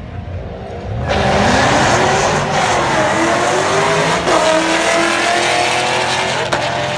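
A Mustang's engine revving hard as the car accelerates away from the line, starting suddenly about a second in. Its pitch climbs and drops back at each gear change.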